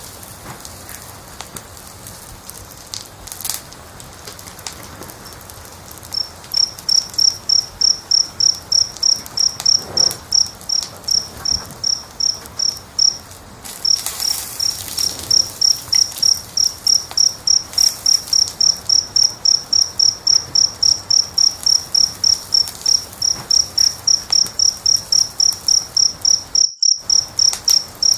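Wood fire crackling softly with scattered pops. About six seconds in, a cricket starts chirping in a steady, high-pitched rhythm of about three chirps a second, louder than the fire, with one short pause partway through.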